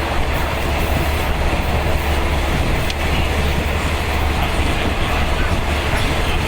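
A moving passenger train heard from inside a third-class coach: a steady low rumble and running noise of the wheels on the rails.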